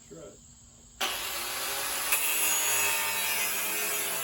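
A power tool cutting metal, a steady harsh noise that starts suddenly about a second in.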